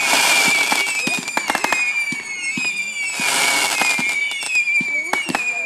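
Firework display: a rapid barrage of bangs and cracks, with two spells of dense crackling and repeated high whistles that fall in pitch.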